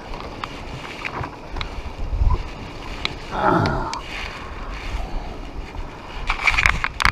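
Strong wind buffeting the microphone over a low rumble, with scattered clicks and knocks, and a quick run of sharp clicks near the end.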